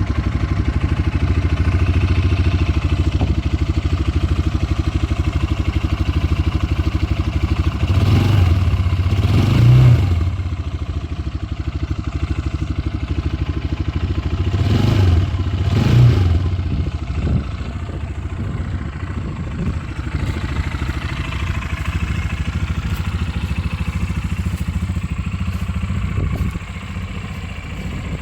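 Sharmax 300 Hummer's engine running just after a start, revved briefly twice, about eight and fifteen seconds in, then settling to a steady, slightly quieter idle.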